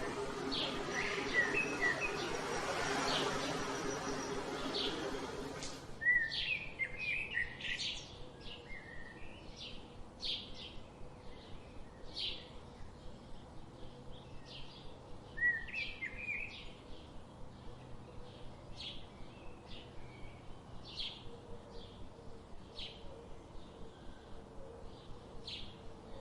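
Birds chirping. For the first six seconds the calls sit over a steady background noise with a low hum. The sound then changes abruptly to a quieter scene of short, high chirps repeated about once a second, with an occasional brief warbled phrase.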